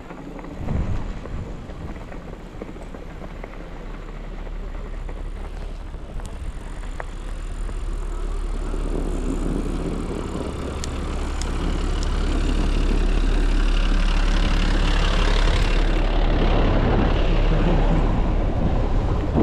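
Wind rushing over the microphone and a low steady rumble while riding a fat-tire electric mountain bike, growing louder about eight seconds in.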